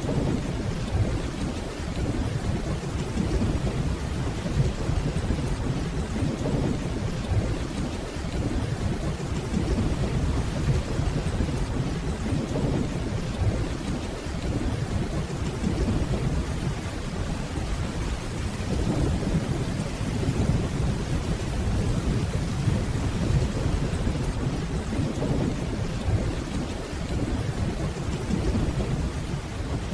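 Steady rainfall with a continuous low rumble of distant rolling thunder underneath.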